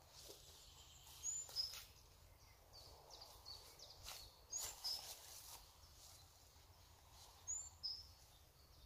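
Quiet woodland ambience: a small songbird repeats a short high two-note call, a rising note then a lower one, three times about three seconds apart. A few faint rustles and clicks come between the calls.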